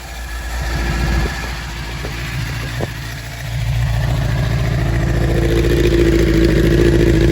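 Suzuki GSX-R600's inline-four running at idle through an aftermarket Two Brothers exhaust. The engine is still fairly cold. Its note rises a little past halfway and holds louder, and there is a single click about three seconds in.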